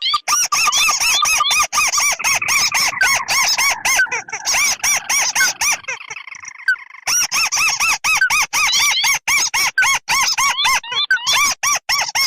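Recorded lure calls of tikusan merah and tikusan putih crakes: rapid, squeaky notes repeated several times a second, overlapping, thinning out briefly a third of the way in before picking up again.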